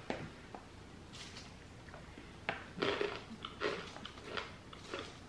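Crunchy roasted fava beans being chewed: quiet at first, then a run of short, irregular crunches from about halfway through.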